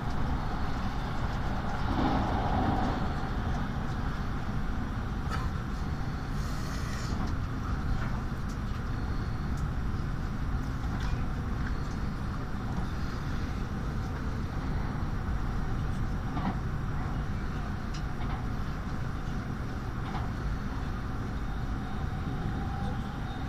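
Tokaido Shinkansen train running, heard from inside the passenger cabin: a steady low rumble with faint scattered clicks.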